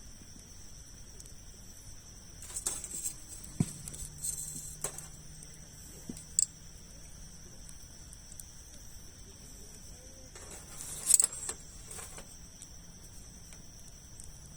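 Wood campfire crackling, with scattered sharp pops and short clusters of crackle, the loudest about eleven seconds in. A steady high-pitched tone runs underneath.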